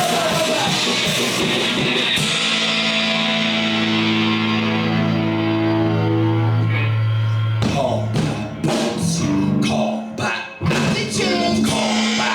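A loud live rock band playing guitar and drums. About two seconds in, a chord is held and rings out for several seconds. The band then comes back in with short, choppy stop-start hits.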